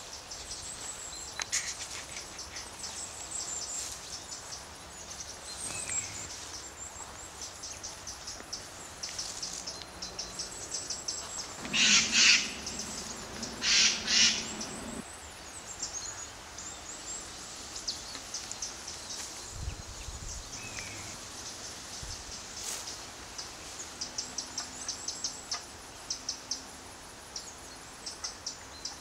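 Woodland ambience of birds chirping and calling, with rapid high chirps throughout and two louder bursts near the middle.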